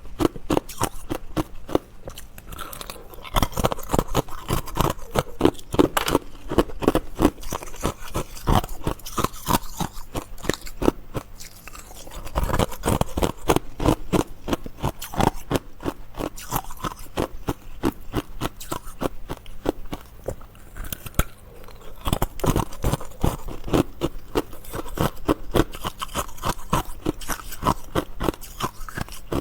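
Close-miked chewing of ice: rapid, crisp crunching and cracking in runs, broken by short lulls between mouthfuls.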